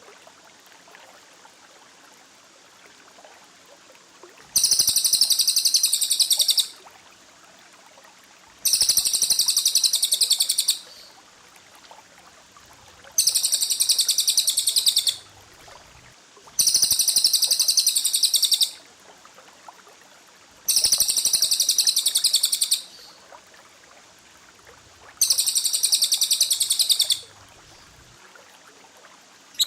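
Six bursts of high, dense, rapid-fire bird song, each about two seconds long and a few seconds apart, with a faint hiss between them.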